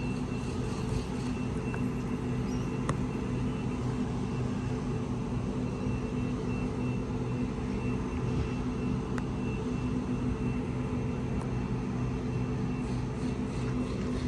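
Steady low mechanical hum of a vehicle, holding several constant pitches, with a few faint clicks.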